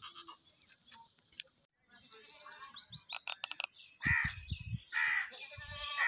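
Birds calling: a quick run of high chirps, then three short, harsh calls about a second apart.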